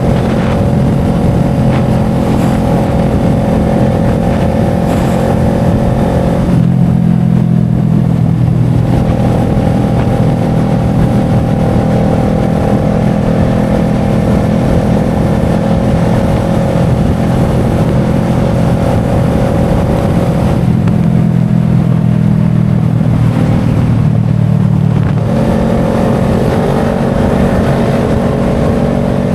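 A motorbike engine running steadily, its pitch shifting down and back up a few times.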